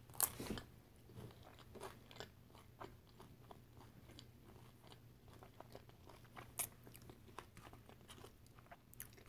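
Faint crunching and chewing of tortilla-chip nachos loaded with queso, salsa, steak and chicken: a scatter of small crisp clicks, with a louder crunch about six and a half seconds in, over a low steady hum.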